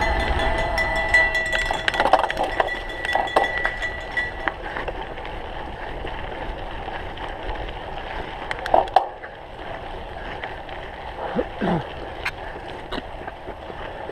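Cyclocross bike rattling and clinking as it is ridden over rough ground, with many scattered sharp clicks from the chain and frame. A steady high tone fades out in the first few seconds.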